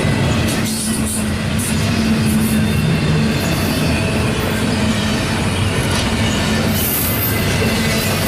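Union Pacific double-stack intermodal freight train rolling past, a steady rumble of steel wheels on rail with faint high tones above it.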